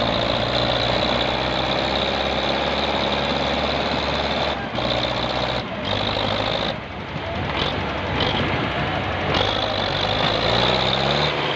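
Diesel tractor engines running hard under load during a tug-of-war, pitch climbing near the end as an engine revs up.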